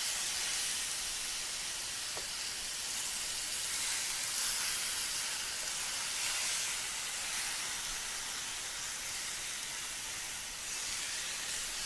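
Raw chicken breasts sizzling on a preheated indoor grill: a steady high hiss.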